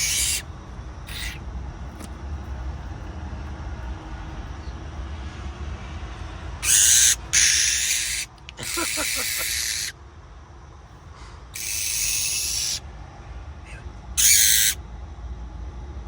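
A rescued magpie-lark giving harsh, rasping, hiss-like calls in bursts of up to about a second and a half. There are two short calls at the start, a run of longer ones from about six and a half to ten seconds in, and two more later.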